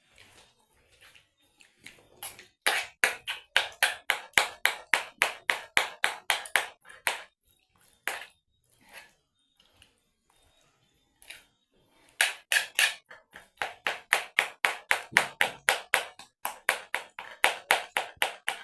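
Quick, regular sharp strokes, about five a second, in two runs of several seconds each, with a few scattered single strikes between them.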